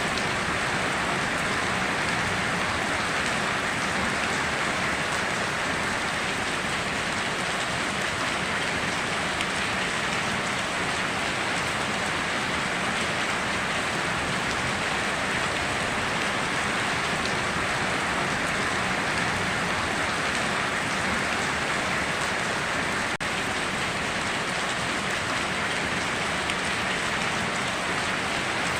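Steady, even heavy rain falling on a surface, a constant hiss with no thunder claps or breaks.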